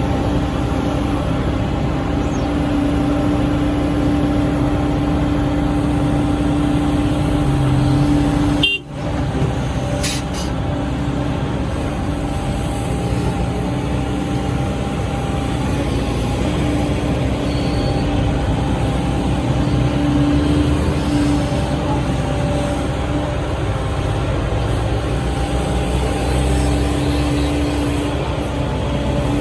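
SANY SY135C excavator's diesel engine and hydraulics running steadily under load while digging, with a steady hum and a brief dropout about nine seconds in.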